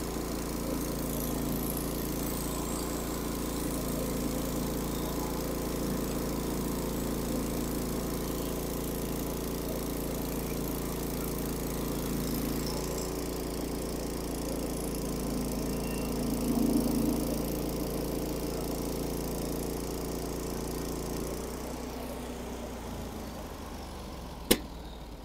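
Norwood HD36 portable bandsaw mill's engine running steadily. About 21 seconds in it slows and quiets. A single sharp click comes near the end.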